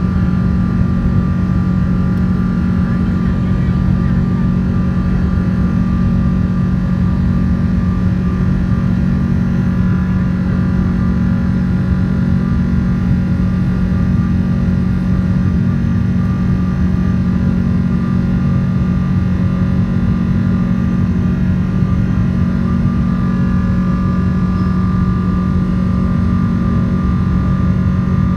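Jet airliner's engines heard from inside the passenger cabin during takeoff: a loud, steady rumble with a steady whine above it.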